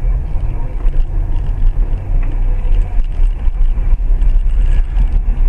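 Steady low rumble of a moving vehicle picked up by a dashcam: engine and road noise that rises and falls but has no sharp impact.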